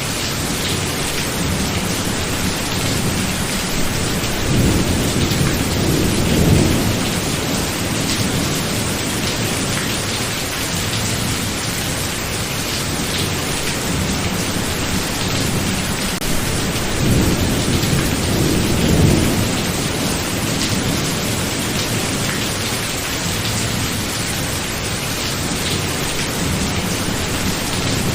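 Thunderstorm: steady rain hissing throughout, with two long rolls of thunder. The first builds about four seconds in and peaks a couple of seconds later; the second starts around seventeen seconds in. Each sinks back into the rain.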